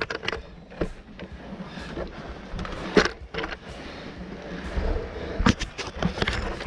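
Irregular knocks, clinks and scrapes of a caver's gear and body against rock while getting onto rope in a narrow crack, with a cluster of sharper knocks near the end.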